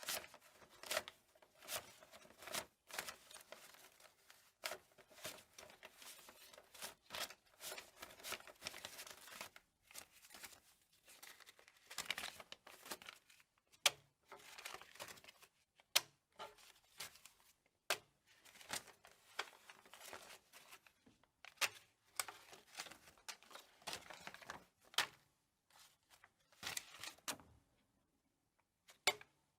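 Paper banknotes being counted by hand: an irregular run of crisp paper flicks and rustling, about one or two a second, with a brief pause near the end.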